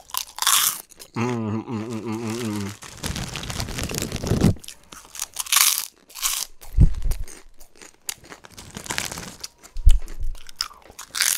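Close-miked crunching and chewing of a crisp puffed snack, in irregular bites, with a wavering hummed "mmm" about a second in and two low thumps later on.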